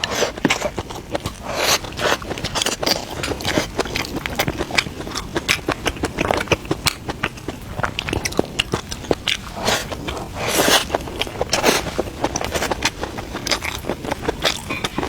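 Close-miked eating sounds: a person biting and chewing food, with frequent short clicks and scraping noises throughout.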